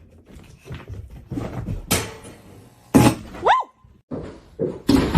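A loud thump about three seconds in, followed at once by a short squeal that rises in pitch and levels off, among a few lighter knocks.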